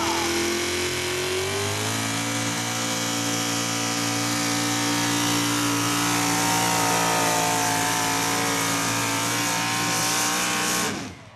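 Light four-wheel-drive pulling truck's engine at full throttle under load, climbing in pitch over the first couple of seconds and then held at high revs. It stops abruptly near the end.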